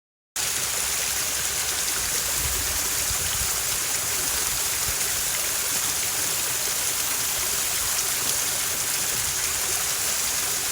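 Steady rush of running water, cutting in suddenly about half a second in and holding level throughout.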